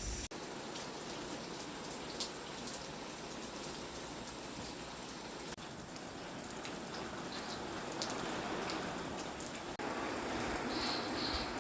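A steady, even hiss with scattered light ticks. Its character shifts abruptly about halfway through and again near the end.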